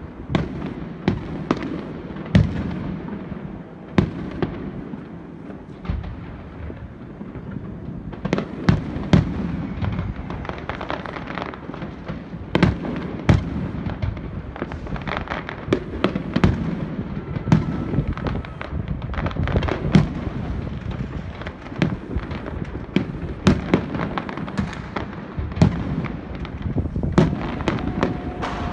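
Fireworks display: aerial shells bursting in quick succession, sharp bangs over a continuous rumble and crackle.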